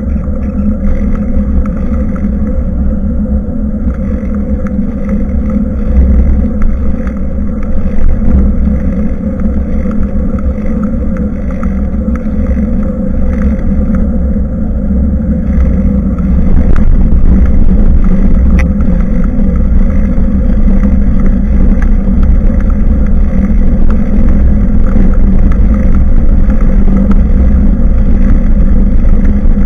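Steady rumble of wind and riding vibration on a bicycle-mounted action camera's microphone, with a constant low hum, getting louder about halfway through as the ride speeds up.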